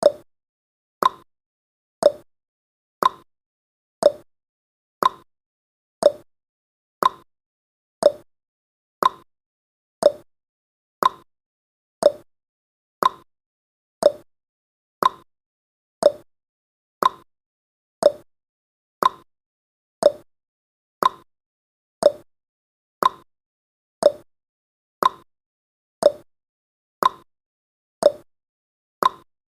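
Countdown timer's ticking sound effect: a short, sharp tick once a second, each dying away quickly, steady throughout.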